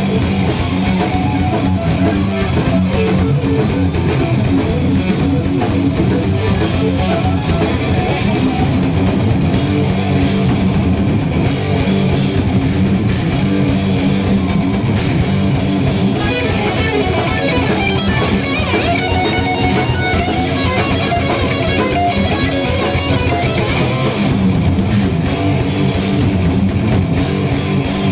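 Live heavy metal band playing a cover song, with loud distorted electric guitars and a drum kit throughout.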